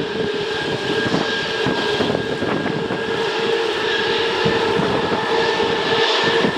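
Jet airliner's engines running with a steady whine over a broad rushing roar.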